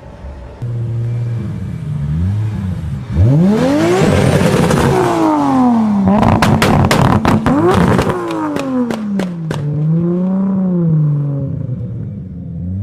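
Toyota MK4 Supra's inline-six engine revved hard: the pitch shoots up about three seconds in, falls back, then climbs and drops again. A rapid string of sharp pops and crackles comes in the middle, with a smaller blip of revs near the end.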